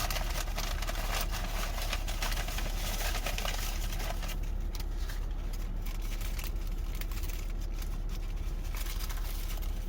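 Light crackles and rustles of a fast-food burger and its wrapper being picked apart by hand over a steady low hum; the crackling thins out after about four seconds.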